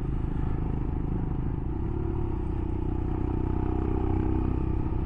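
Royal Enfield Himalayan's single-cylinder engine running steadily as the motorcycle is ridden along a winding mountain road.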